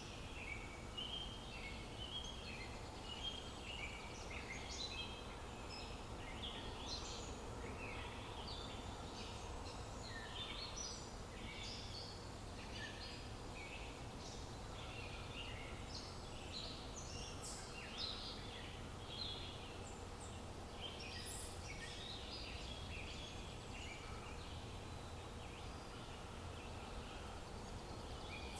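Many small birds chirping and singing at once: a continuous chorus of short, overlapping chirps over a steady low background hum of outdoor ambience.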